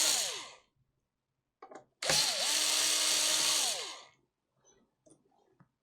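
Small electric screwdriver running in short bursts: one run winds down just after the start, and another spins up about two seconds in, holds for about two seconds and winds down, with faint clicks between.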